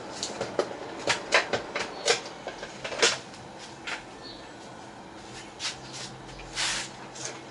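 Irregular clicks and light knocks of hard fan parts being handled and fitted together, most of them in the first three seconds.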